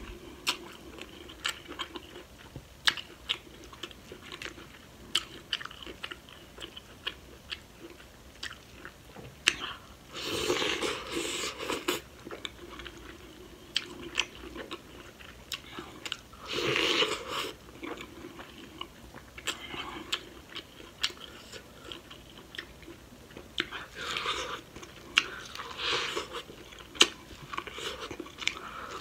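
Close-miked chewing with many wet mouth clicks: a person eating corn on the cob from a sauced seafood boil. Louder spells of biting come about ten, seventeen and twenty-five seconds in.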